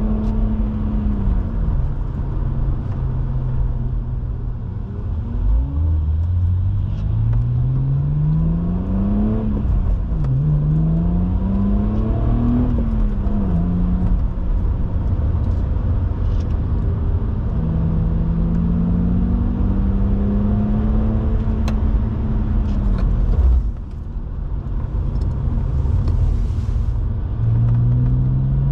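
BMW E87 130i's 3.0-litre naturally aspirated inline-six pulling through the gears. Revs drop at upshifts and climb again twice in quick succession midway. It then holds a steady cruise, goes briefly quieter on a lift-off near the end, and picks up again.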